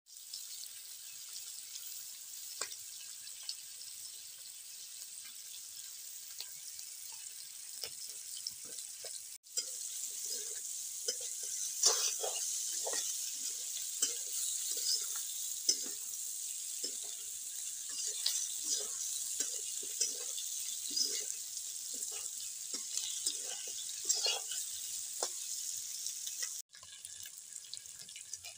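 Chicken pieces sizzling in hot oil in a wok, a steady hiss. From about a third of the way in, a spatula stirs the pieces, knocking and scraping on the pan in short irregular strokes.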